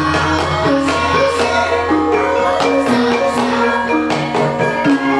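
Javanese gamelan ensemble of the Banyumas style playing: bronze metallophones and bonang sound a steady melody of struck, ringing notes over hand-drum strokes, and a deep gong hum rings on underneath.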